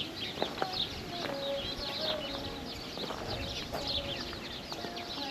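A busy chorus of small birds chirping and twittering, with a few short, lower, steadier calls among them and a couple of sharp clicks about half a second in.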